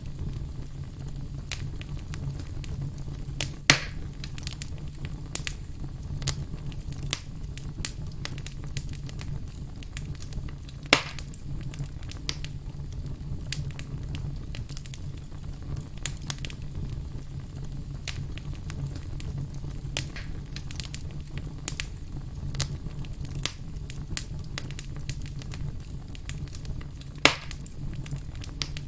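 Burning firewood crackling steadily, with a constant low rumble of flame under frequent small snaps. Three much louder pops come about 4 seconds in, about 11 seconds in, and near the end.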